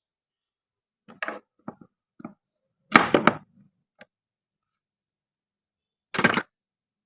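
Toy knife cutting apart hard toy fruit and vegetables: a series of short clacks and knocks, loudest in a quick cluster about three seconds in, with one more near the end.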